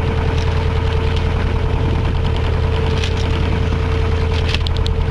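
Westerly Centaur yacht's inboard engine running steadily, a constant low hum with a steady whine above it. Near the end there is a quick run of clicks.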